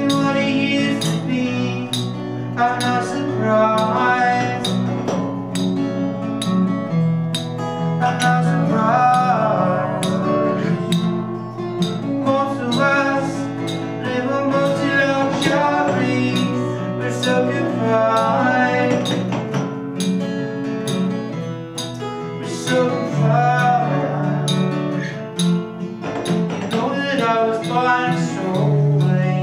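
Indie rock band playing and singing a song acoustically in a bathroom: strummed acoustic guitar with a lead singing voice, steady and continuous.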